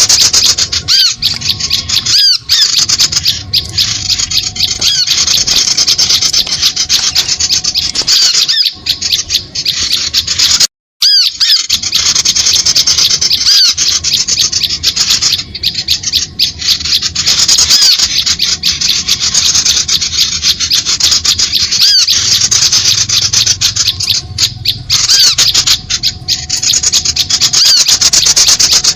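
Bird-luring recording of small birds: a loud, dense, continuous chatter of rapid high-pitched calls, broken by a brief cut-out about eleven seconds in before it carries on.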